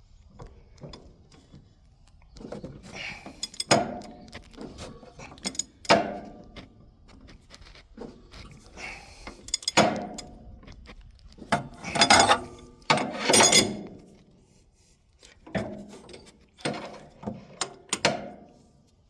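Metal hand tools clinking and scraping against engine parts in irregular bursts, as the inline-six engine is turned over by hand to bring number 2 cylinder to valve crossover.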